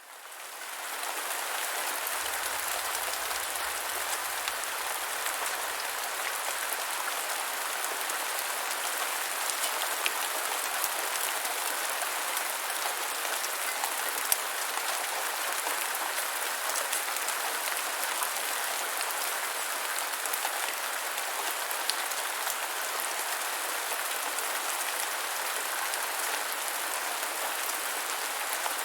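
Steady gentle rainfall, an even hiss with scattered sharper drop ticks, fading in over the first second.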